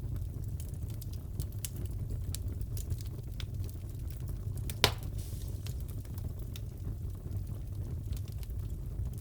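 Crackling fireplace: a steady low rumble of burning wood with scattered small crackles and one loud pop about five seconds in.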